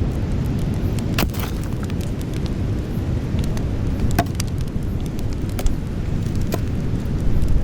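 Outdoor campfire burning with a steady low rumble of flames and scattered sharp crackles and pops of burning wood, a few louder pops about a second in, around four seconds in and past six seconds.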